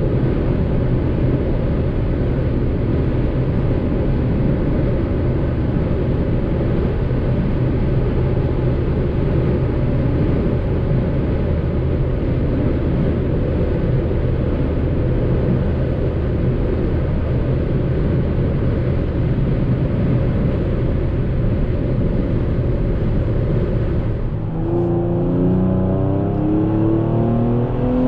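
Kia Stinger GT's 3.3-litre twin-turbo V6 with a Bastuck exhaust, heard from inside the cabin near its top speed: a steady engine drone under heavy wind and road noise. About three-quarters of the way through it changes suddenly to the engine pulling hard, its note climbing steadily as the car accelerates.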